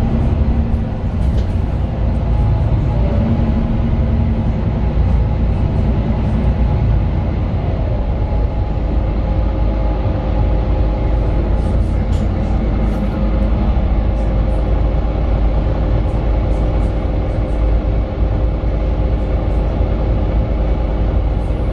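Mercedes-Benz Citaro 2 city bus heard from inside the passenger cabin: its OM 936 six-cylinder diesel engine and drivetrain running, a steady low rumble with an even engine hum.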